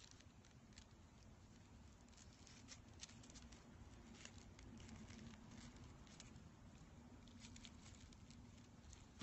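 Faint scattered rustling and light clicks of hands handling raffia braid and beads, over a faint low hum.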